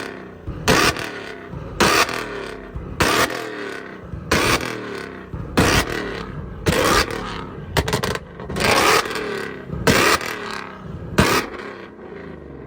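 Car engine revved hard in repeated blips, about one sharp burst a second, its pitch falling away between them.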